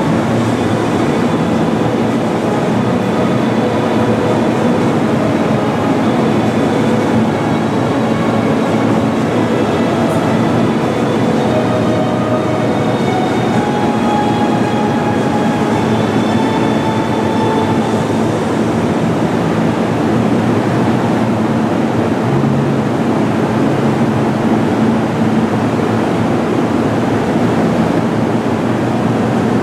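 Steady running noise of a train on rails, a continuous rumble and hiss with faint shifting tones near the middle.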